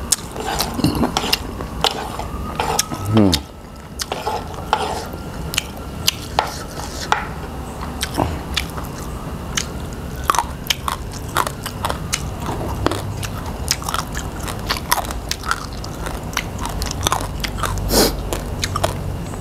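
A person eating a spicy pounded salad with crispy squid close to the microphone: chewing and crunching, with many sharp crunches and clicks throughout. A short falling sound comes about three seconds in.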